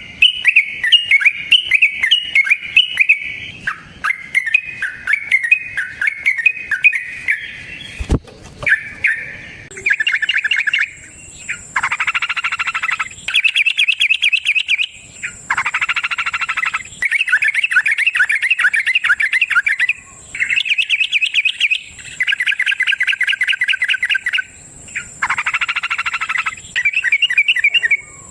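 Yellow-vented bulbul singing. A varied chattering song gives way, about ten seconds in, to a series of fast rolling trills, each lasting a second or two with short gaps between. A single sharp click comes about eight seconds in, and a steady thin high whine runs under the later trills.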